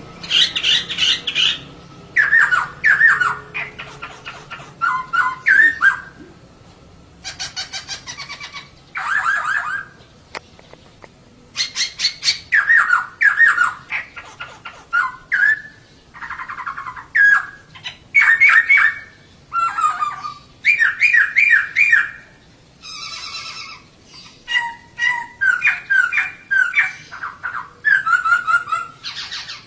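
Female laughingthrush (poksay) calling in repeated short bursts of rapid chattering notes, each about a second long, with brief pauses between them. This is the female call used to provoke male poksay into singing.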